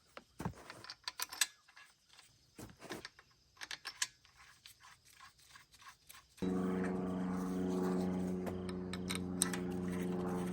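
Scattered light clicks and knocks, then about six seconds in a steady machine drone starts abruptly and runs on at one even pitch.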